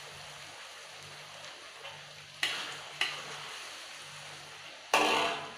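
Red snapper pieces sizzling in spice paste in a steel wok, stirred with a metal spatula. The spatula strikes the wok three times, the last near the end the loudest.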